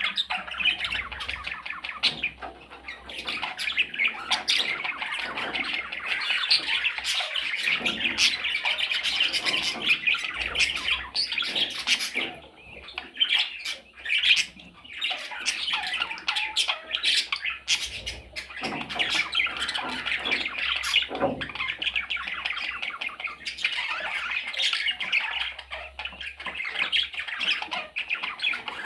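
A flock of small pet parrots calling over one another in a dense, rapid stream, with a short lull about twelve seconds in.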